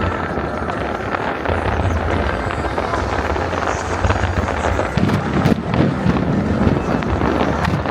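Fireworks going off in a dense barrage: continuous crackling over a low rumble, with a few sharper bangs in the second half.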